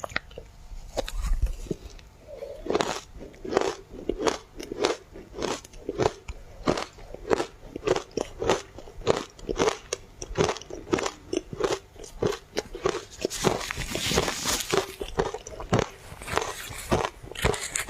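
Ice coated in matcha powder being bitten and chewed: a steady run of crunches, about two a second, growing denser for a couple of seconds about 13 seconds in.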